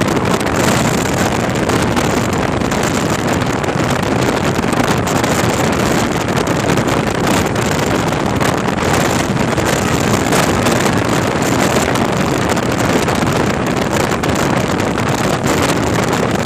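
Hero CBZ Xtreme single-cylinder motorcycle engine running at speed under heavy wind rush on the microphone, steady throughout.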